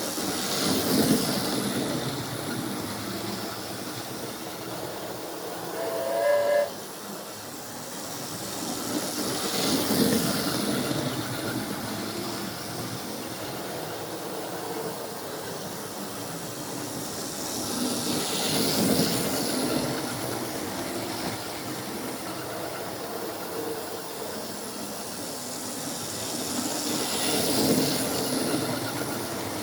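Model steam locomotive running round a loop with a steady hiss, swelling each time it passes, about every nine seconds. A short whistle blast sounds about six seconds in and cuts off suddenly.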